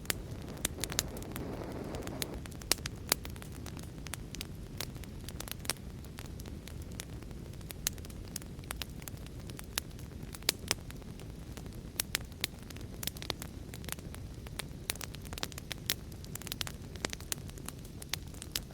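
Wood fire crackling: irregular sharp pops and snaps over a steady low rumble of burning. A short hissing swell comes in the first couple of seconds.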